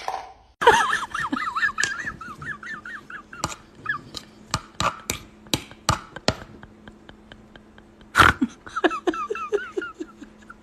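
An animal's rapid warbling whine in two stretches, near the start and again near the end, with a series of sharp clicks or taps between them.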